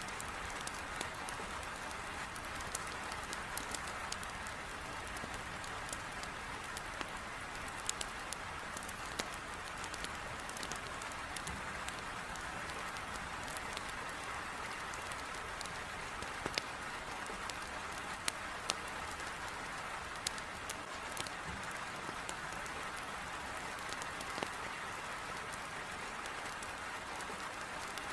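Heavy rain beating on a window, a steady hiss, mixed with a wood fire in a fireplace giving scattered sharp crackles and pops.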